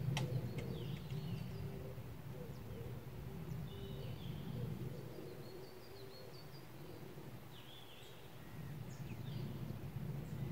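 Birds chirping and calling at intervals over a steady low rumble of outdoor background noise.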